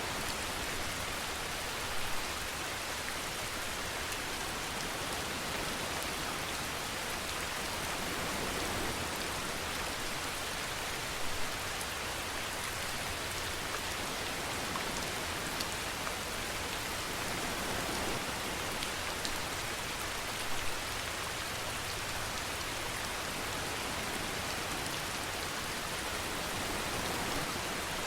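Steady rain falling and pattering on surfaces, an even hiss. A few louder drops stand out briefly now and then.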